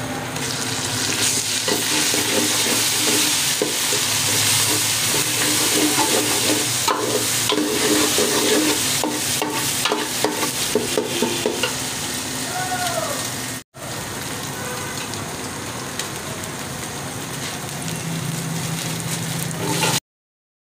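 Food sizzling in hot oil in a cooking pot, with a spoon stirring and scraping against the pot in frequent clicks. The sound breaks off for an instant about two-thirds of the way through and stops abruptly near the end.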